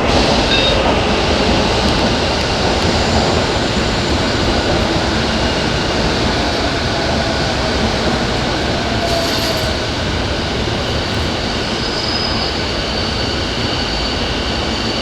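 Electric train running at a station platform: a steady rumble of wheels and motors, with a faint whine that slowly falls in pitch and a brief high wheel squeal about twelve seconds in.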